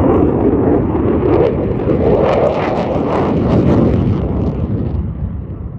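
Jet noise of an F-35A's single F135 afterburning turbofan as the fighter makes a demo pass, with a ragged crackle in the middle seconds, dying away after about five seconds.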